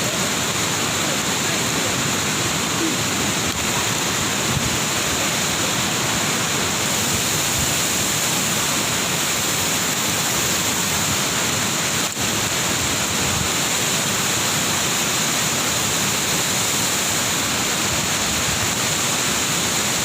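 Lata Iskandar waterfall: water pouring and splashing in a steady, unbroken rush.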